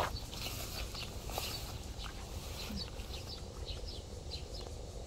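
Small birds chirping: many short, high chirps scattered through, over a steady low rumble, with one brief louder noise at the very start.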